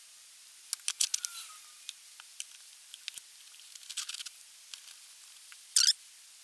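Metal parts and hand tools being handled during assembly: scattered clicks and clinks, a short ringing squeak about a second in, and a louder brief scraping rattle near the end.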